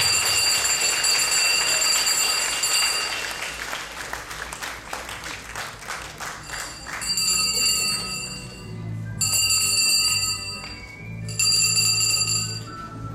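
A school handbell rung over and over for the ceremonial last bell marking the end of school, its high ringing tones over music with a steady bass. There is clapping in the middle.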